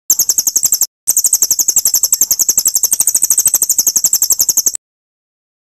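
A songbird's recorded call: a rapid, high-pitched chattering trill of about ten notes a second. It comes in two bursts that cut off abruptly, a short one at the start and a longer one ending shortly before five seconds. It is a looped 'masteran' song used to teach a white-rumped shama new phrases.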